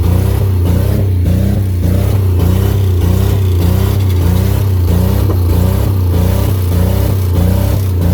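Buick Century's engine held at steady high revs, its sound pulsing regularly about twice a second.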